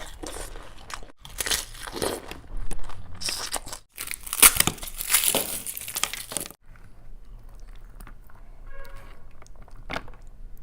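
Close-up crunching and crinkling of crisp fried food being bitten and chewed, a run of loud crunches for the first six seconds or so, then softer chewing and small clicks.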